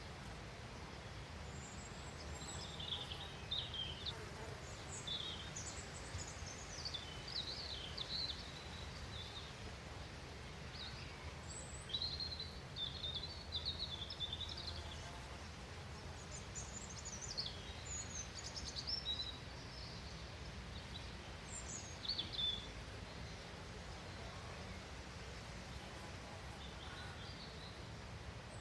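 Small songbirds chirping and twittering in short bursts over a steady low outdoor rumble.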